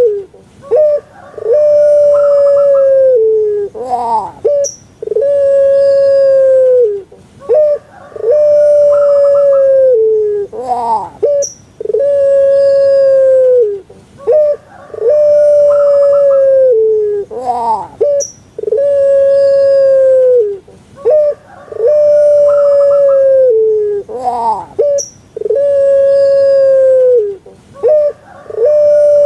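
Puter pelung (domesticated ringneck dove, Streptopelia risoria) cooing over and over. Each call is a short rising note followed by one long held coo that drops at the end, repeating about every three seconds, nine times.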